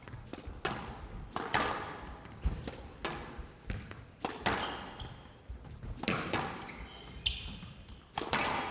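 Squash rally: the ball smacking off rackets and the court walls about a dozen times in quick succession, each hit echoing in the glass court, with short squeaks of players' shoes on the floor.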